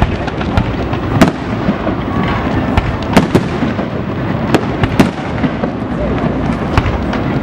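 Fireworks display: aerial shells bursting in a string of sharp, irregularly spaced bangs, several of them louder than the rest, over a continuous din.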